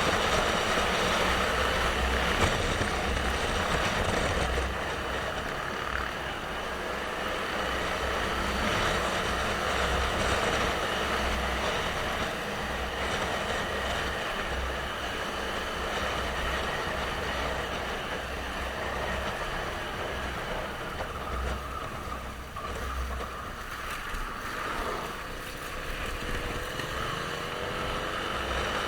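Motorcycle on the move: steady wind and road noise with gusty low buffeting on the microphone and the engine running underneath. A few rising tones near the end, as of the engine picking up speed.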